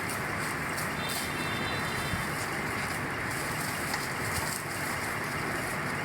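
Plastic rope-making machinery running with a steady, even noise, and a faint high whine about a second in.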